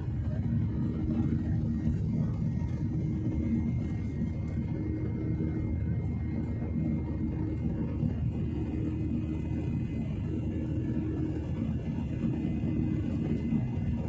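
Aircraft cabin noise during takeoff: a steady, even rumble from the engines, with a thin steady whine above it.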